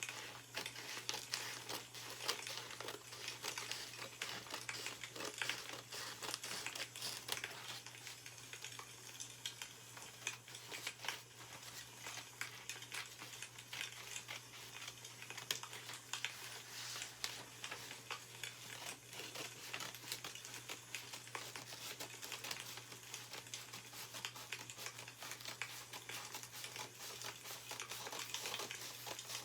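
Dense, continuous crackling of a burning wood fire mixed with newspaper pages rustling, over a steady low hum.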